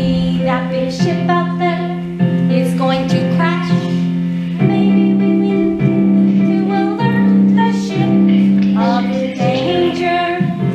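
Children singing an opera number over instrumental accompaniment, with sung phrases wavering above long held low notes.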